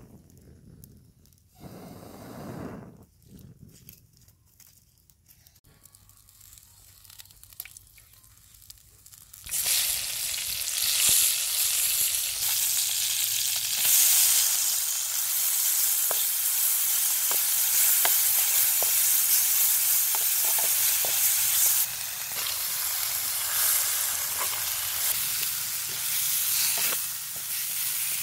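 Hot oil in a pan over a wood fire sizzling as chopped lemongrass and chili are dropped in: a sudden loud, steady hiss begins about a third of the way in. It carries on with scattered light knocks from a stick stirring the pan.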